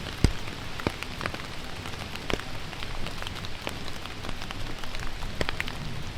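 Steady rain falling, with many separate drops hitting at irregular moments and a few heavier drop hits standing out.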